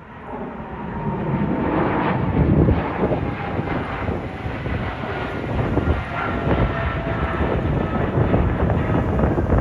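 Jet airliner passing, a steady rushing engine noise with a thin, faint whine above it.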